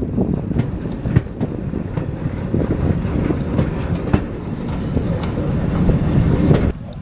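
Railway train running on the Kent and East Sussex Railway line: a steady low rumble with scattered sharp clicks from the wheels on the track. It cuts off abruptly near the end.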